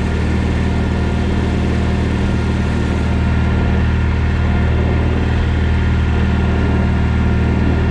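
John Deere 317 garden tractor's engine running at a steady speed while the tractor drives, an even low hum with no change in pitch.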